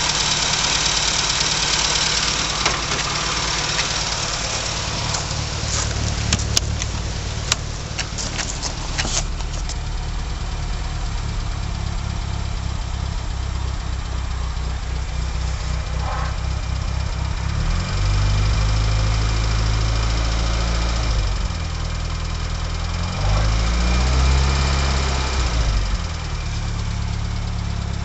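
Four-cylinder BMC A-series engine of a 1980 Leyland Mini idling on choke, with a few sharp clicks about six to nine seconds in. In the second half the revs step up and back down twice as the choke knob is worked, before it is pushed in.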